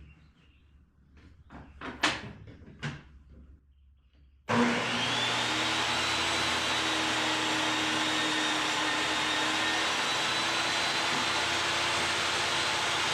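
A few knocks and clicks, then an electric power tool's motor switches on about four and a half seconds in, its whine rising as it spins up and then running steadily and loudly.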